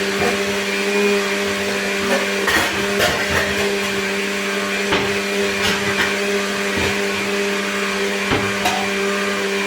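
Kitchen blender running steadily, grinding coconut with water to make coconut milk: a constant motor hum with a few light knocks.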